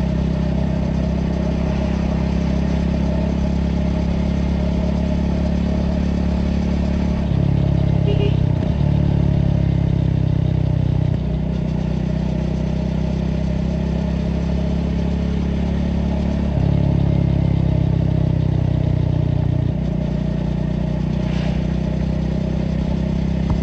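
Triumph Speed 400's single-cylinder engine running under way at a steady road speed. Its note steps up louder twice, about seven and seventeen seconds in, and drops back about four and three seconds later.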